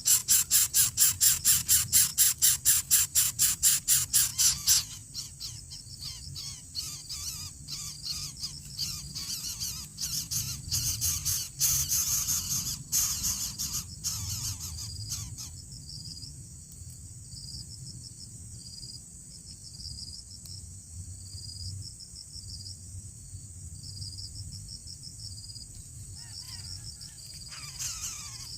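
Insects keeping up a steady high-pitched drone, with a loud, fast pulsing call of about five pulses a second for the first five seconds and scattered clicks after it.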